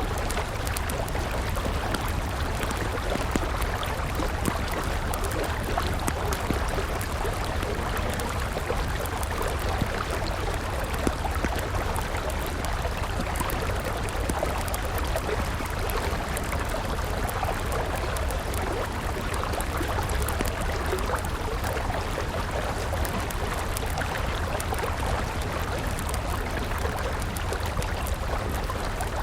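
River water flowing steadily, with a wood campfire crackling in irregular small pops over it.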